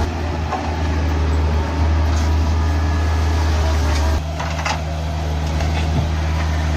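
Heavy machinery engine running with a steady low hum, shifting abruptly about four seconds in, with a few short knocks soon after.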